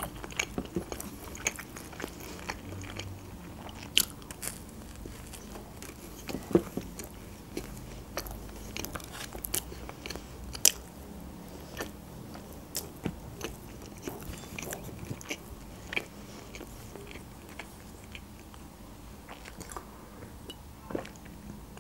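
A person chewing and biting food close to the microphone: scattered wet mouth clicks and smacks at an irregular pace.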